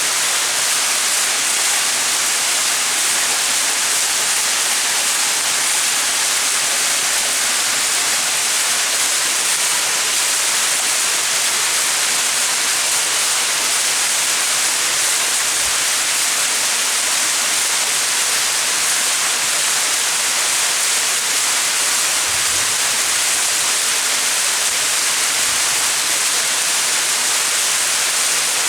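Small mountain waterfall: water falling and splashing, a steady hiss that stays even throughout.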